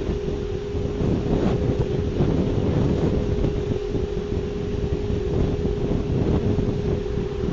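A steady, unchanging humming tone, recorded as one of the reported unexplained 'strange sounds', over rough rumbling wind noise on the microphone.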